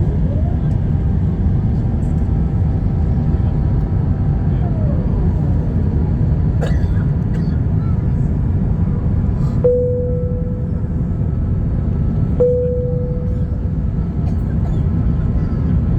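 Airbus A350-1000 airliner running, heard as a steady low rumble with faint whining tones that slide down in pitch. There is a knock about six and a half seconds in, and two short tones that start sharply and fade, a few seconds apart, past the middle.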